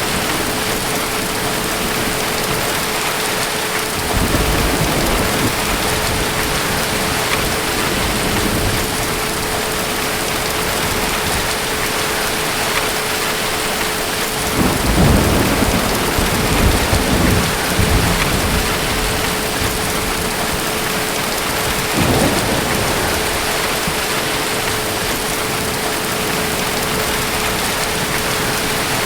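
Steady heavy rain with rolling thunder: a low rumble about four seconds in, a longer, louder roll of thunder in the middle, and a shorter rumble a few seconds later.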